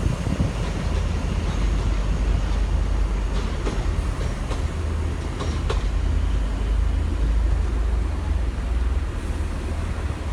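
HST (InterCity 125) diesel train with a low, steady rumble, and a few sharp clicks in the middle, like wheels over rail joints.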